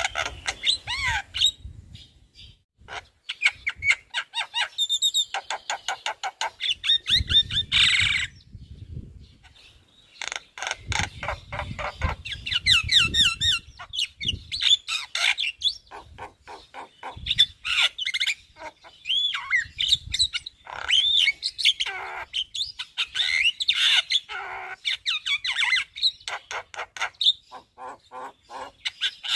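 A Javan myna singing a long, lively song: fast runs of rapidly repeated chattering notes mixed with whistled rising and falling phrases and harsh squawks, broken by a couple of short pauses. It is pouring out its repertoire of learned and mimicked calls.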